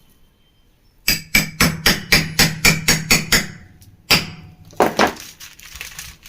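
Hammer tapping a thin metal shaft that rams candle wax into a ceiling fan's bearing housing, so that the packed wax pushes the bearing out: a quick run of about ten sharp strikes, roughly four a second, then a few more after a short pause.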